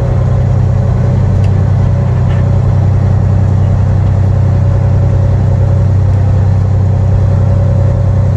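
Semi truck's diesel engine running at a steady low speed, a deep even drone with a fast regular pulse.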